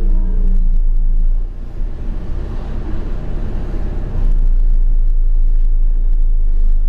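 Enviro400 double-decker bus with a BAE hybrid drivetrain, heard from inside while it drives: a loud low drone, with a steady tone over it for the first second or so. About a second and a half in, the drone drops away and road hiss takes over; a little after four seconds the heavy low drone comes back.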